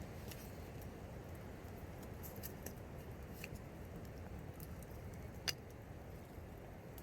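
Steady low rush of wind with scattered small clicks and ticks, and one sharper click about five and a half seconds in.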